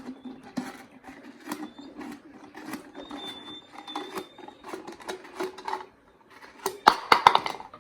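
Scissors cutting through a plastic bottle to take its top off: a run of short, crisp snips and crackles of thin plastic, louder near the end.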